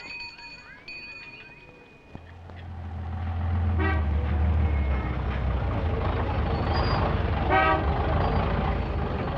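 A motor vehicle engine starts rumbling about two seconds in and runs on. A horn gives two short toots, about four and seven and a half seconds in. Before the engine comes up there are only faint, high, steady tones.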